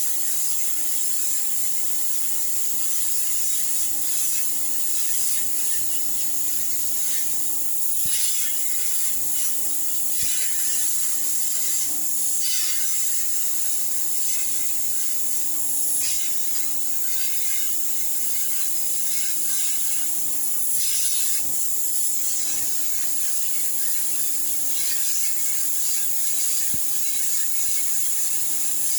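Wood fire crackling with irregular small snaps and pops over a steady hiss, and a constant low hum underneath.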